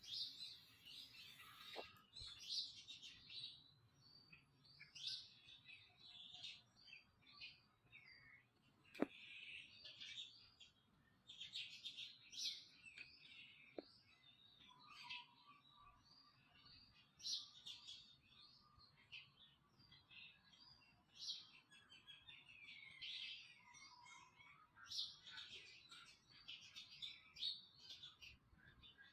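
Faint, high-pitched chirping and squeaking calls from small animals, many short cries in quick irregular succession throughout, with a sharp click about nine seconds in.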